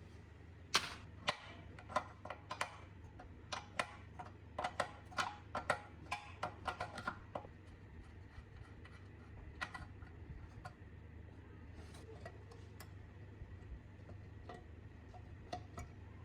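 Metal tools and parts clinking and tapping: about twenty sharp clicks with a short ringing over the first seven seconds, then a few fainter ticks, over a steady low hum.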